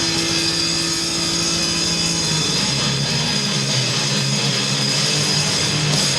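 Grindcore band playing at full volume: heavily distorted electric guitar and bass holding low chords, shifting to a new chord about two seconds in.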